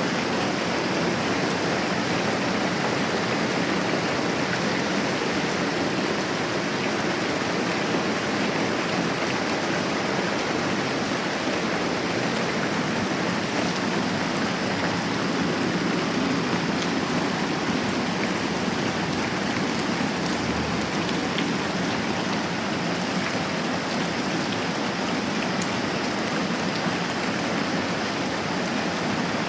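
Moderate rain falling steadily, an even continuous hiss of drops.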